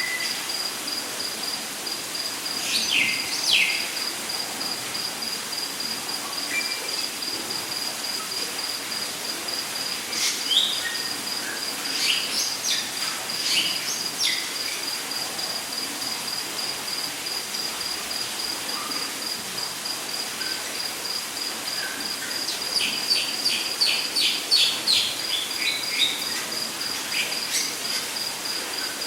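Rainforest ambience: a steady, rapidly pulsing insect trill over a soft even hiss, with bird calls on top. Falling whistled calls come about three seconds in, scattered calls follow around ten to fourteen seconds, and a quick run of calls comes near the end.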